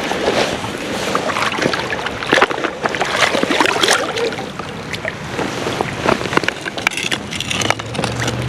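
Water splashing and sloshing in irregular bursts as a large palomino trout thrashes at the surface while being landed.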